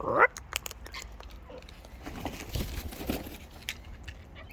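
Wild birds cracking and chewing seed, with many scattered sharp beak clicks and a stretch of rustling and crunching about halfway through. A short rising call right at the start is the loudest sound.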